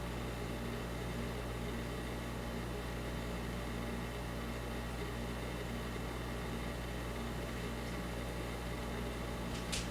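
Steady low mechanical hum with fixed tones, like a motor or appliance running. Near the end a quick run of sharp, high ticks begins, about seven a second.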